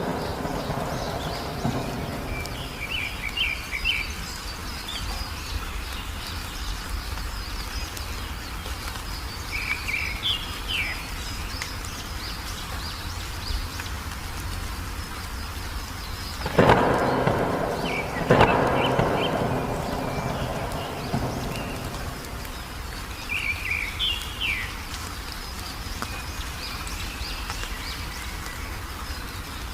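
Steady rain with two sharp thunderclaps a little past halfway, about two seconds apart, each trailing off in a rumble. Small birds chirp in short high bursts every several seconds over the rain.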